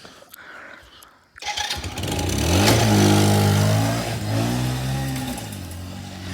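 Small youth ATV engine that comes in suddenly about a second and a half in. It revs up with rising pitch as the quad accelerates, eases off, revs again, and then fades as it pulls away.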